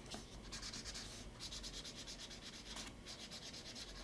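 Crayola felt-tip marker colouring on paper: faint scratchy rubbing strokes back and forth, coming in short runs with brief pauses between.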